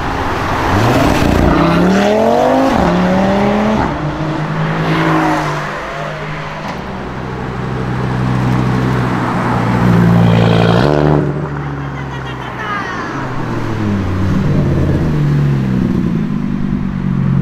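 Audi RS3s' turbocharged five-cylinder engines pulling away hard. The pitch rises through about three quick upshifts in the first few seconds. Later another RS3 revs up and passes, then an engine runs at lower, steadier revs near the end.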